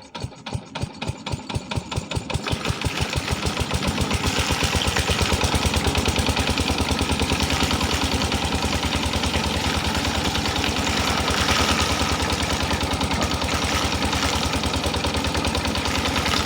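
An engine picking up speed: its evenly spaced beats quicken and grow louder over the first four seconds or so, then settle into a steady fast run.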